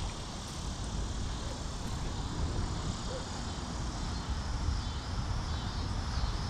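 Steady outdoor noise: gusty wind rumbling on the microphone over a constant hiss.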